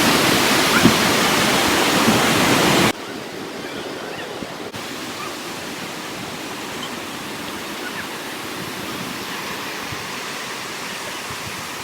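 Steady rush of ocean surf and wind. About three seconds in it drops abruptly to a quieter, duller rush.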